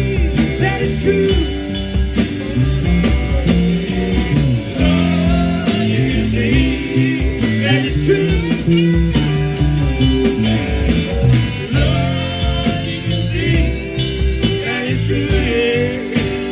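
A band playing a song: guitar and drums, with a voice singing over them.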